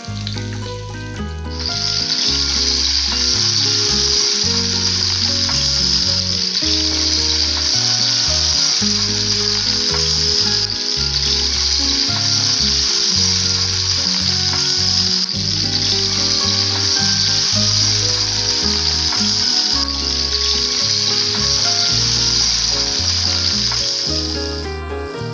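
Shrimp frying in hot oil, a steady loud sizzle that starts about a second and a half in and cuts off near the end. Background music with a low, stepping bass line plays throughout.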